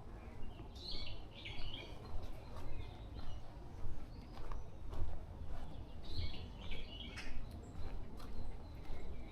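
Brown-eared bulbul giving harsh, chattering calls in two bouts, about a second in and again about six seconds in, over steady footsteps on the forest path.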